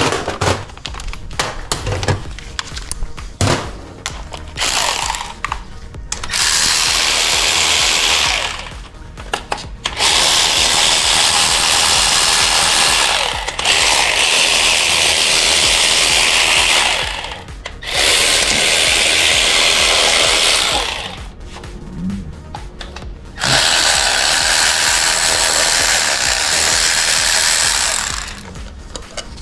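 A cordless power tool running in five bursts of two to four seconds each, backing bolts out of an engine. Light clicks and clatter of tools and parts come in the first few seconds.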